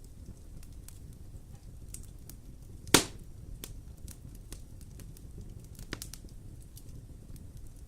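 Wood fire burning in a fireplace: a low steady rumble of flames with frequent small crackles. One loud sharp pop about three seconds in, and a smaller one about six seconds in.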